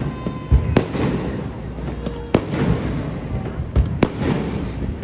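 Fireworks going off: three sharp cracks about a second and a half apart, with low booms among them, over the murmur of voices.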